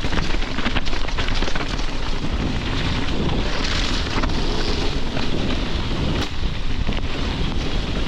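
Wind rushing over the microphone of a mountain bike descending a wet trail, with tyre noise and many short clicks and knocks from the bike rattling over rough ground.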